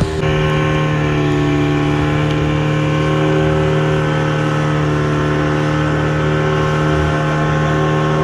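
Boat's outboard motor running at a steady speed, a constant droning hum.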